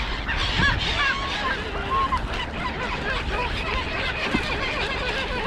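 A flock of wild birds calling together: many short, overlapping calls throughout, over a low steady rumble.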